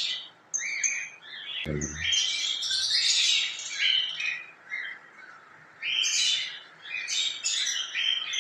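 Caged cockatiels chirping and squawking: many short high calls overlapping in quick succession, with brief gaps.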